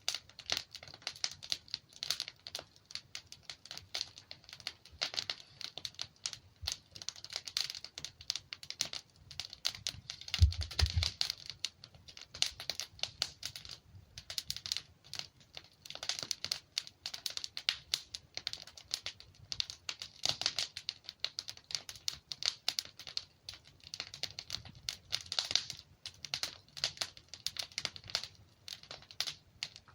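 Log fire crackling and popping: rapid, irregular snaps throughout, with one louder, deeper pop about ten seconds in.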